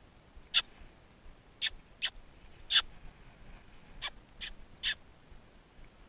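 Small wild birds giving about seven short, sharp call notes at uneven intervals, some in quick pairs.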